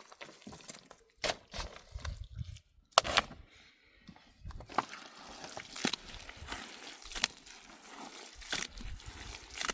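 A series of sharp knocks or cracks, about one every second or so, the loudest about three seconds in, with a steady hiss underneath from about halfway.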